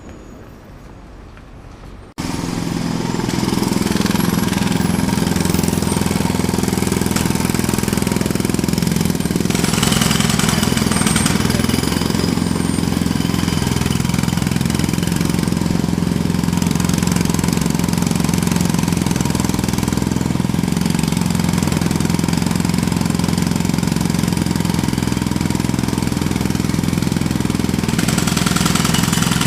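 A jackhammer starts suddenly about two seconds in and then keeps hammering steadily and loudly, with a low engine-like drone underneath. Before it starts there is only a quieter background.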